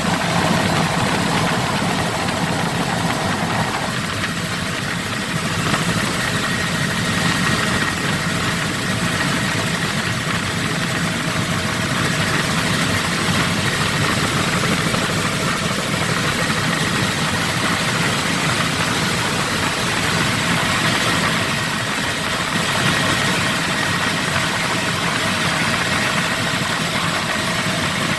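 Helicopter engine and rotor running steadily: a loud, constant drone with a thin high whine over it.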